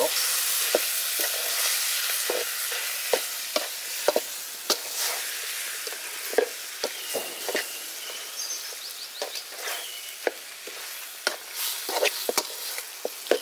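Chicken pieces and freshly added ground masala sizzling in a large metal pot while a metal spatula stirs them, scraping and clinking against the pot about every second. The sizzle is loudest at first and slowly dies down.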